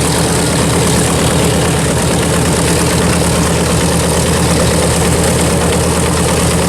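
One radial engine of a B-25 Mitchell bomber idling steadily just after start-up, with an even, rapid beat, while the other engine is not yet started.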